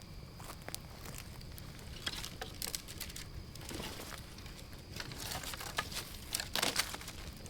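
Footsteps crunching and rustling through dry fallen autumn leaves and twigs on the forest floor, irregular at first and busier from about two seconds in and again near the end.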